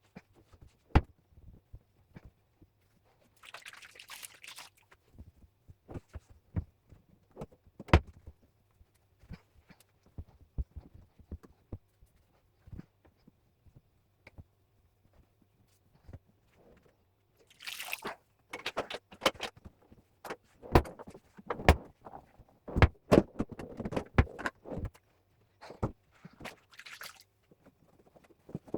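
Scattered knocks and clicks, thickening into a busy clatter about two-thirds of the way through, with a few short rustling hisses.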